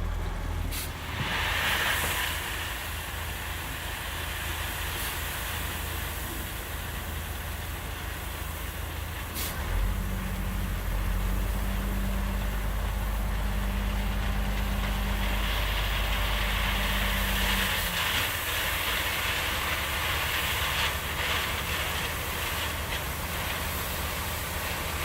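Dump truck engine running steadily, with a short hiss of air about a second in and a click near ten seconds in, after which the engine hum is stronger for about eight seconds before settling back.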